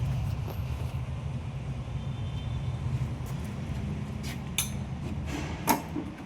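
Steady low mechanical rumble of running machinery, with a few sharp clicks and knocks near the end, the last the loudest.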